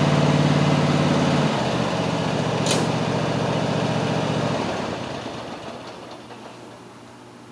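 Lawn mower engine running with a steady note. It drops in level about a second and a half in, with a single sharp click a little later, then dies away over the next couple of seconds.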